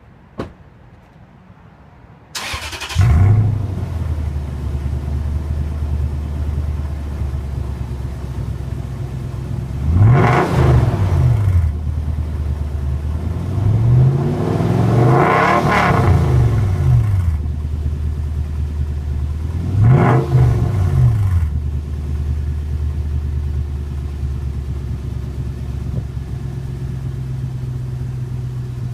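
2006 Toyota Tundra engine through a straight-piped resonator delete and a Dynomax race bullet muffler dumped just behind the muffler: a single click, then the engine cranks and catches about two seconds in and settles to a steady idle. It is revved three times, the middle rev the highest and longest, dropping back to idle after each.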